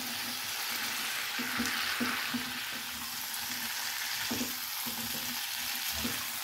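Diced pumpkin and potato sizzling in mustard oil and cooked spice paste in a nonstick wok while being stirred with a silicone spatula: a steady sizzle with soft knocks and scrapes of the spatula now and then.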